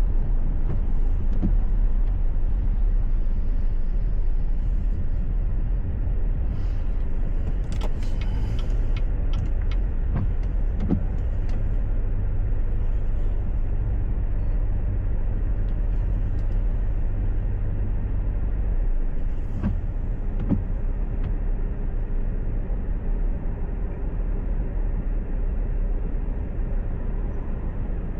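Steady low road and engine rumble of a car driving, recorded by a dashcam, with scattered short clicks and ticks, mostly in the first half and again about two-thirds in.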